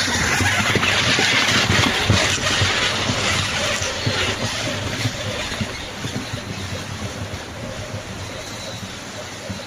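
Car driving slowly over a rough, unpaved mountain track, heard from inside the cabin: a steady noise with frequent small knocks and rattles from the bumps, slowly getting quieter.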